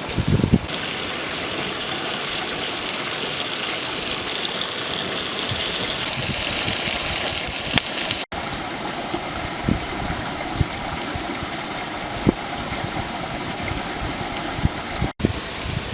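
Steady rush of a flowing stream, with wind knocking on the microphone now and then in short low thumps. The sound cuts out abruptly twice for an instant.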